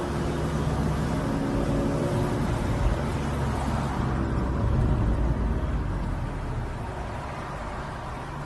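Volkswagen Golf GTI Mk7's turbocharged four-cylinder engine running through an aftermarket ECS Tuning exhaust, heard from outside the car. The exhaust note holds steady for several seconds, then fades gradually over the last couple of seconds.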